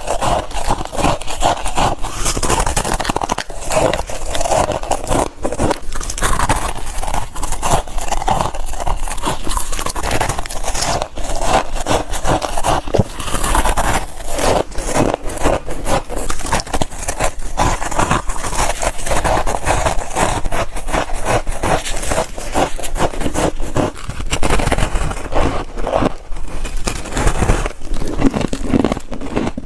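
Close-up biting and crunching of chunks of freezer frost: a steady run of crisp, crackling crunches, one after another.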